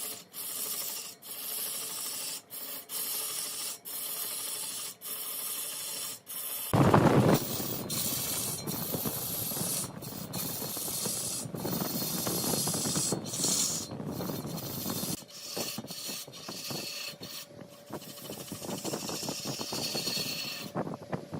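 Wood scraping and rasping as it is worked on a large wood lathe. It breaks off briefly about once a second for the first few seconds, then a louder, fuller burst comes about seven seconds in.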